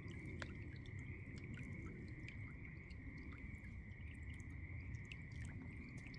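Faint outdoor ambience: a low rumble and a steady faint high tone, with scattered small ticks and drips.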